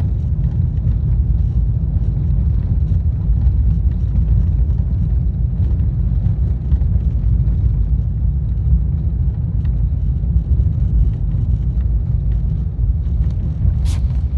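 Inside a moving car's cabin, a steady low road and engine rumble from driving a rough, storm-battered road. A single sharp click comes just before the end.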